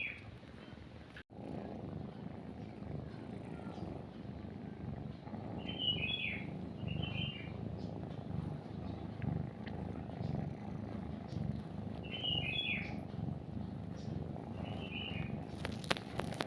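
After a brief dropout about a second in, a cat purrs steadily in a low pulsing rumble. Over it, a small bird gives short clusters of falling chirps four or five times, and a few clicks come near the end.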